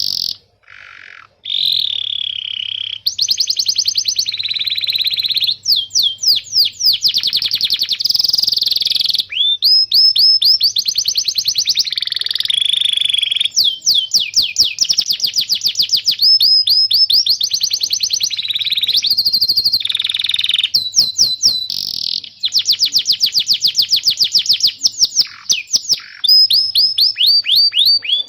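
Domestic canary singing: long rolling trills of fast repeated rising and falling notes, in phrases of one to a few seconds with short breaks between them.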